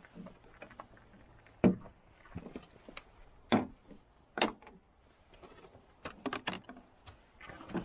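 Irregular knocks, clicks and light rustles of camping gear being handled, with a few sharper knocks about a second and a half, three and a half, and four and a half seconds in, and a quick run of small clicks near the end.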